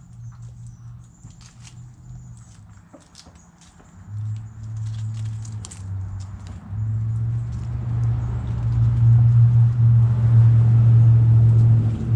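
Backyard chickens pecking at food scraps: quick light taps with small high chirps. About four seconds in, a loud low rumble starts and keeps building, drowning them out.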